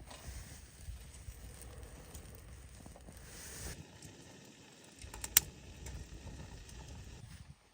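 Campfire burning and crackling, with one sharp loud pop about five seconds in.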